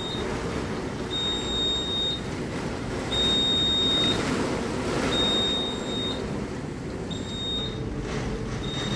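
Electronic alarm beeping: a high, steady beep about a second long, repeating roughly every two seconds, over a steady low rumble.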